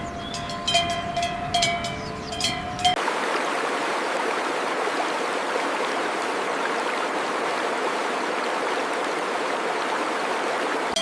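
Steady rushing of stream water, starting abruptly about three seconds in. Before it come a few sharp metallic clanks with a ringing tone over a steady hum.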